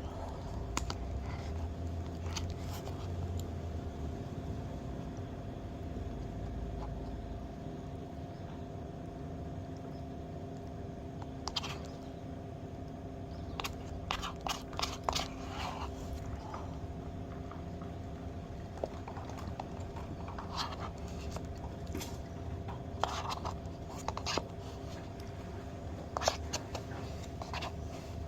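Spoon scraping and clicking against a carton of ice cream in scattered short strokes, which grow more frequent in the second half, over a steady hum.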